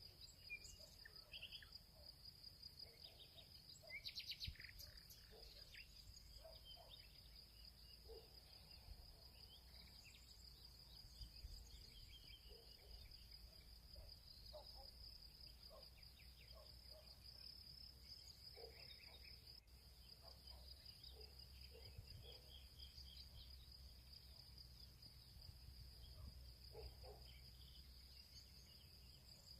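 Faint field ambience: a steady high-pitched insect trill, typical of crickets, runs throughout. Scattered short bird chirps sound over it, with a cluster about four seconds in, and a low rumble lies underneath.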